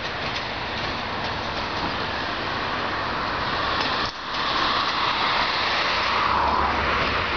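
Train in a railway station yard, a steady running noise that grows louder after a brief drop about four seconds in.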